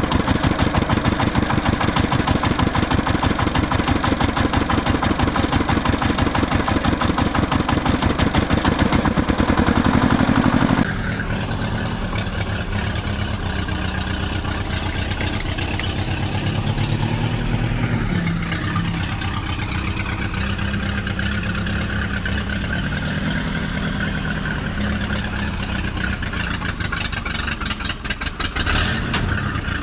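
An engine running with a fast, even firing beat. About eleven seconds in it cuts abruptly to a different, slightly quieter engine sound whose pitch rises and falls.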